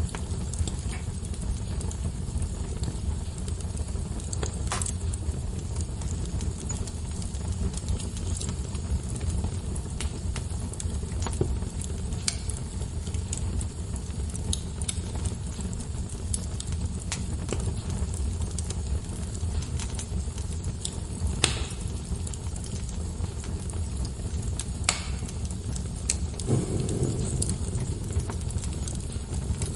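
Wood fire burning with a steady low rumble and scattered sharp crackles and pops of burning logs.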